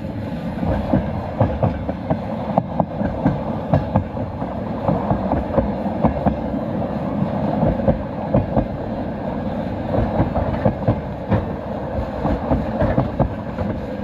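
Passenger train running along the track: a steady rumble with many irregular clacks of the wheels over the rails.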